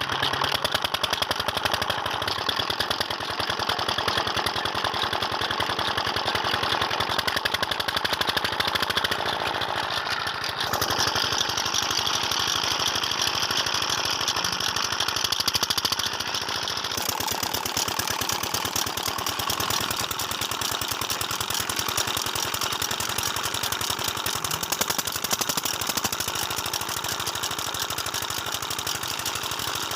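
Tubewell diesel engine running steadily with a fast, even firing beat.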